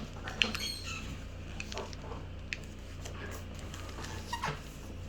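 A sheet of paper being folded and creased by hand: soft crinkles, rubs and clicks, with a few brief falling squeaky sounds.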